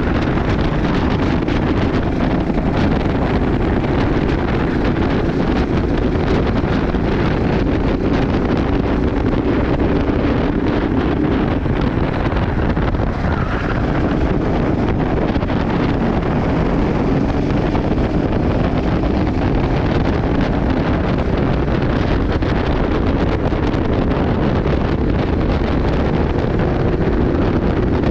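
Racing kart's engine running at speed, its hum rising and falling a little, with heavy wind noise buffeting the microphone.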